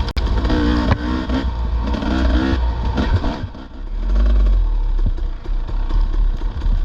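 Dirt bike engine on a trail ride, its pitch rising and falling as the throttle is worked, then settling into a heavier low rumble about four seconds in.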